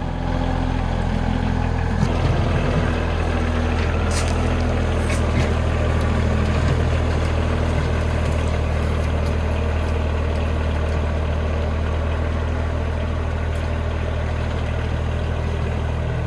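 A vehicle engine running steadily at a low, even speed while the machine backs up and smooths out the pile. Faint knocks come about two and four seconds in.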